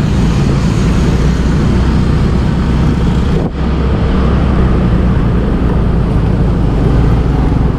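Motorbike engine running steadily under way, with wind and road noise on the bike's own camera microphone; the sound drops out briefly about three and a half seconds in.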